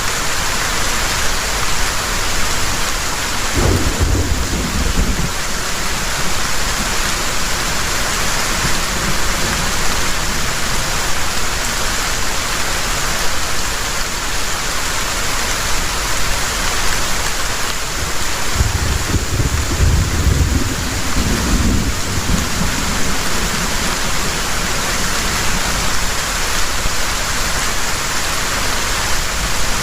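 Heavy rain falling steadily, with thunder rumbling low twice: briefly about four seconds in, and longer about twenty seconds in.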